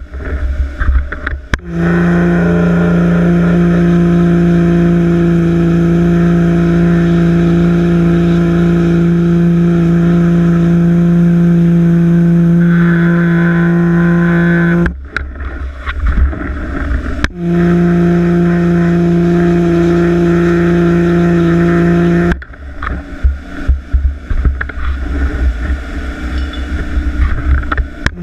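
Pressure washer running in two spells, about thirteen seconds and then about five seconds: a steady, even-pitched hum with a spray hiss. It cuts off abruptly each time, as when the trigger is released, leaving rough low rumbling noise in between and afterwards.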